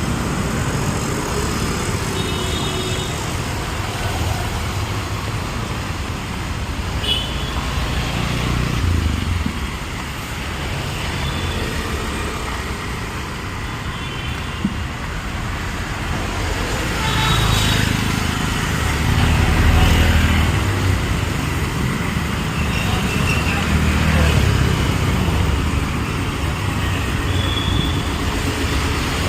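City street traffic: a steady wash of passing cars and motorbikes, with a few short vehicle horn toots scattered through, the rumble swelling as heavier vehicles pass about two-thirds of the way in.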